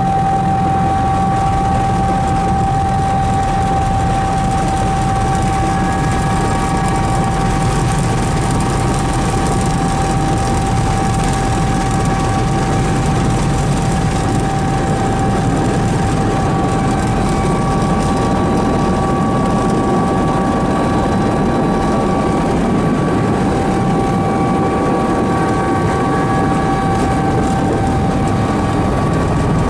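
Helicopter engine and rotor noise heard in flight, a steady loud drone with a constant high whine over it.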